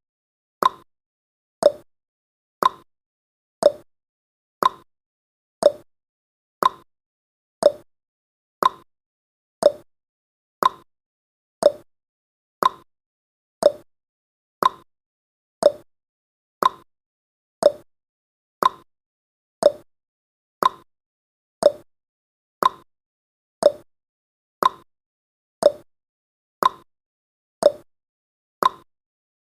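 Clock tick-tock sound effect marking the countdown, one sharp tick each second, alternating between a higher and a lower tick.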